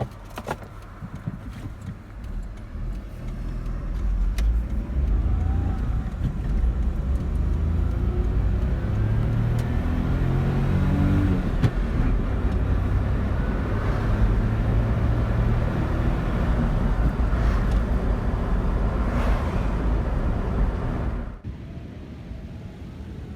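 Daihatsu Terios Kid's freshly overhauled EF-DET turbocharged three-cylinder engine running as the car drives, the engine note rising and falling with engine speed. The sound drops away abruptly about 21 seconds in.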